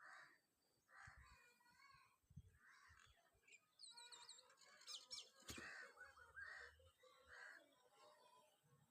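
Turkeys calling, a run of faint, separate, wavering calls one after another, with some higher, quick chirps about four seconds in.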